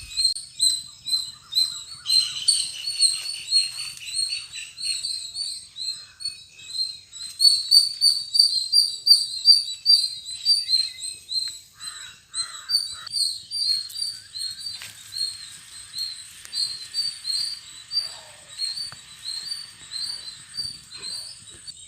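Birds chirping: a steady run of short high chirps, several a second, loudest about a third of the way through.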